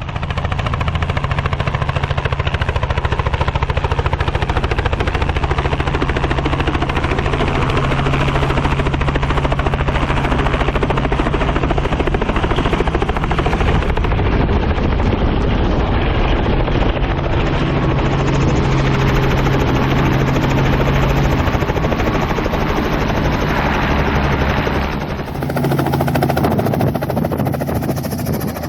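Four-seat helicopter running close by: a steady rapid chop of the rotor blades over the turbine's drone, loud throughout, with a brief dip in level near the end.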